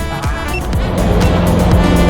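Background music with a steady beat; about a second in, the steady drone of the Cessna 182's piston engine and propeller comes in underneath and grows louder.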